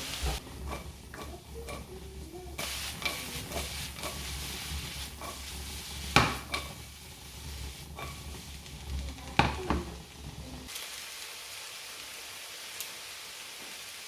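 Food sizzling and frying in a pan while it is stirred, with a cooking utensil knocking and scraping against the pan several times, two knocks louder than the rest. Near the end the stirring stops and only a steady sizzle remains.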